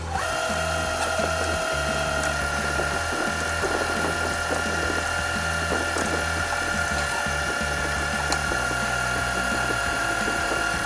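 Metal lathe starting up, its whine rising briefly to speed and then holding steady while a tap cuts threads into an aluminium bung, with a few light clicks.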